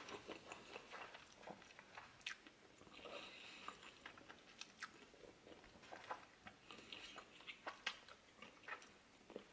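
Faint chewing of a mouthful of spicy instant ramen noodles, with a few soft clicks and smacks.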